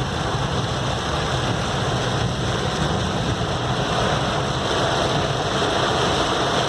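Heavy rain pouring down as a steady, dense hiss, over the low rumble of a vehicle moving through it.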